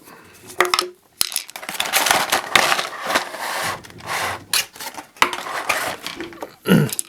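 Plastic blister packaging crinkling and clicking as it is pulled open and handled, in an irregular run of rustles and sharp crackles.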